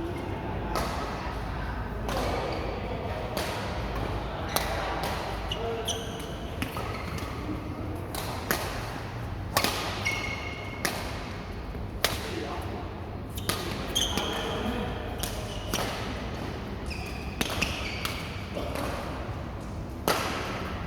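Badminton play: sharp racket hits on shuttlecocks every second or two, with short high shoe squeaks on the court floor, echoing in a large hall and over distant chatter.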